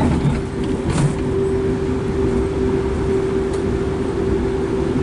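Passenger train running at speed, heard from inside the carriage: a steady rumble of wheels on the track with a constant hum at one pitch, and a sharp click about a second in.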